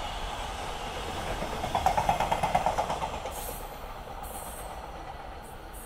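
Freight train of container wagons rolling over the rails with a steady rumble. About two seconds in comes a louder run of rapid, evenly spaced clicks from the wheels, lasting about a second, and then the sound fades as the train moves away.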